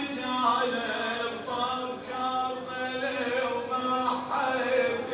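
A man chanting a Shia mourning elegy unaccompanied, in long held melodic phrases with short breaks between them.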